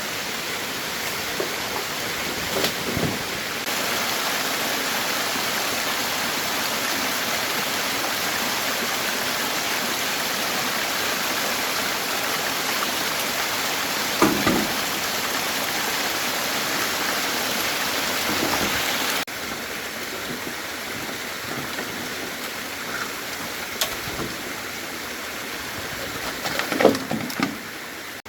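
Steady rushing noise with a few scattered knocks. The noise steps up in level about four seconds in and drops suddenly about two-thirds of the way through.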